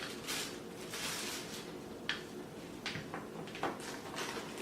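Packaging and accessories being handled during an unboxing: soft rustling with a few light clicks and knocks, the sharpest about two seconds in.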